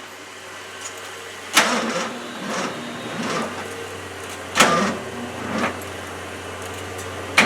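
The 1989 Ford F-250's 5.8 L V8 shuts off right at the start. After it, a low steady hum, three sharp clicks or knocks about three seconds apart, and faint indistinct voices.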